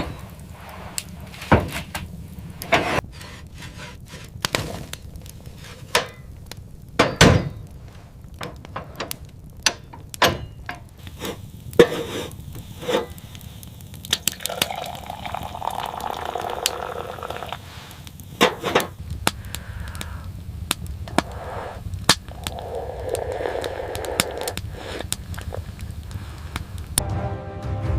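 A series of irregular knocks and thuds, with two longer rough, noisy stretches, one about halfway through and one near the end.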